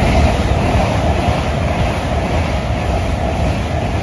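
LNER Class 801 Azuma electric train passing through at speed close by: a steady rush of wheels on rail and air, loudest at the start and easing off gradually as the rear coaches go by.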